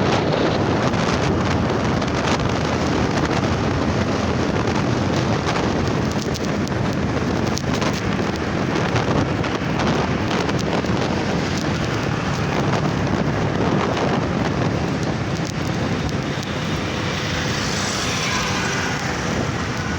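Wind rushing over the microphone of a phone carried on a moving bike, over steady traffic and engine noise.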